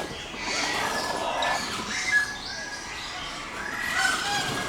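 Birds calling with many short, repeated chirps and squawks, one louder than the rest about two seconds in.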